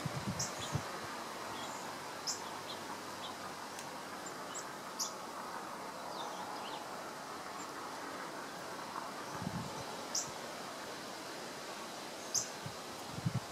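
Short, high bird chirps every second or two over a steady outdoor hiss, with a few low thumps near the start, about two-thirds of the way in, and near the end.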